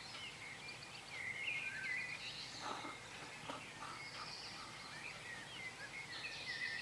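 Early-morning chorus of several songbirds: many short overlapping chirps, trills and whistled phrases from different birds, over a faint steady background hiss.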